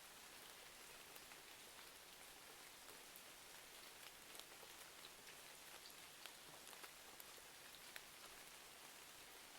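Faint rain with a crackling wood fire: a steady hiss of rain dotted with scattered small, sharp crackles.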